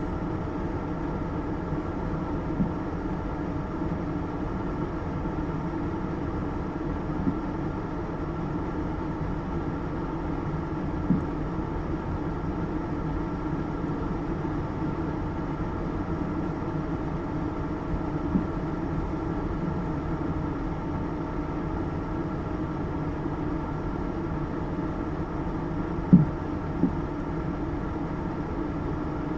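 Steady hum of a car running, with a few small clicks over it.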